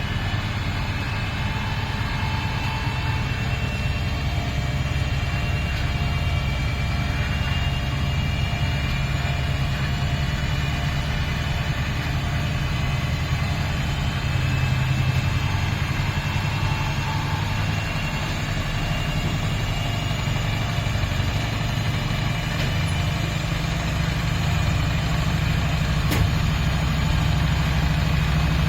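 Miele PW 6080 washing machine running: a steady low motor hum with a faint high whine, getting a little louder near the end.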